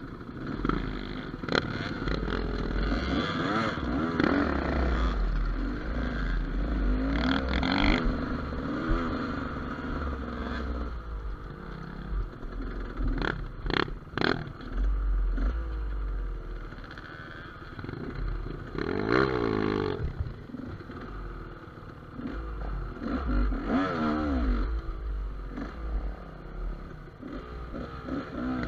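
Gas Gas EC200 two-stroke enduro motorcycle being ridden off-road, its engine revving up and down again and again as the throttle is worked. A few sharp knocks about halfway through, with a low rumble throughout.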